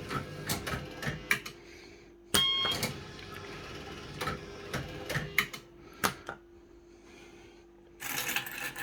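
Firecracker fruit machine playing: its reel deck's mechanism and solenoids clicking and clunking irregularly, with a short electronic beep about two and a half seconds in, over a steady machine hum. The reel deck is faulty: the middle reel won't nudge and keeps losing position, which the owner puts down to a solenoid.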